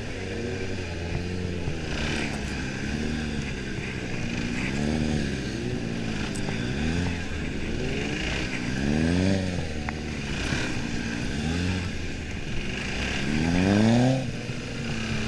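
Motorcycle engine revving up and dropping back again and again as the throttle is opened and closed through tight turns around cones. A long rise near the end cuts off suddenly.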